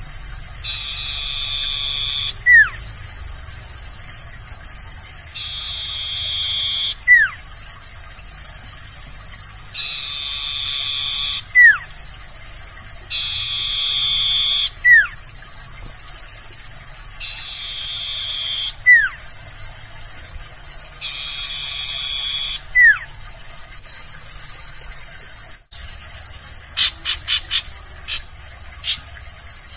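Common iora (sirtu, cipoh) calling: six times, about every four seconds, a buzzing trill of about a second and a half that swells in loudness and ends in a short downward-sliding whistle. Near the end comes a quick run of short high notes.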